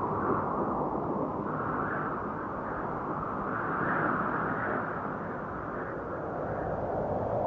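A continuous rushing noise with no distinct tones, swelling and easing every second or two.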